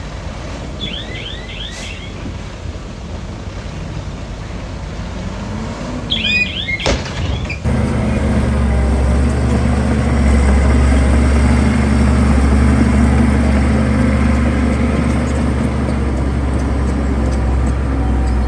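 Diesel engine of heavy earthmoving machinery running steadily, with a few short high chirps in the first half; about halfway in the engine sound jumps suddenly louder and steadier.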